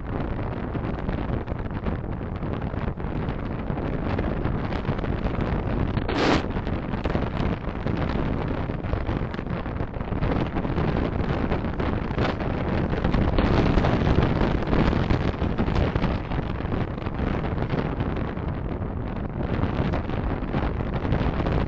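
Steady road and wind noise from a car being driven, picked up by a dashcam microphone. A brief hissing burst comes about six seconds in.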